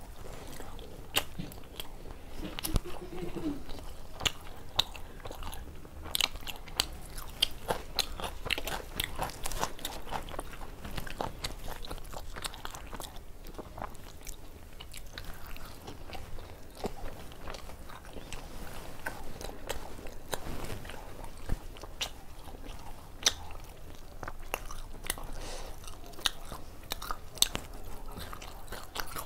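Close-miked chewing and lip-smacking of a person eating tandoori roti and mutton keema by hand, with frequent short, irregular crunchy clicks.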